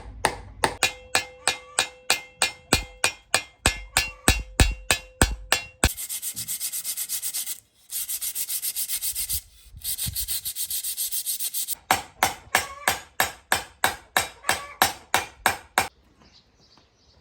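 Rhythmic rubbing or scraping strokes, about three a second, with a faint ringing tone over them. In the middle they give way to a faster, hissing stretch broken by two short gaps, then the strokes resume and stop near the end.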